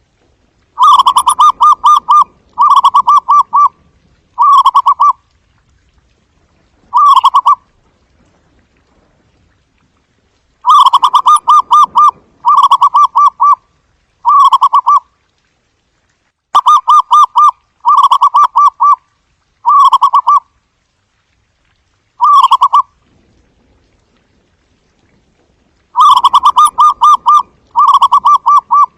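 Zebra dove cooing: loud staccato phrases of rapid, trilled notes, coming in bouts of three or four phrases that get shorter toward the end of each bout, the bouts repeating about every 8 to 9 seconds.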